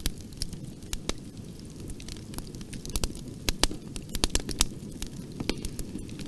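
Wood fire crackling in a fireplace: irregular sharp pops and snaps over a steady low rumble of burning, with a denser run of pops about midway.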